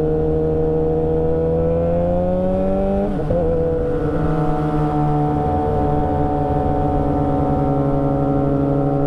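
Motorcycle engine under way, pulling up through the revs, then a gear change about three seconds in, after which it runs steady at lower revs.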